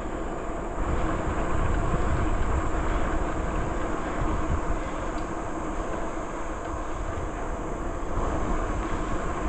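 Rush of wind buffeting the microphone and the rumble of a bicycle rolling along a trail, loudest in the low end and rising and falling unevenly.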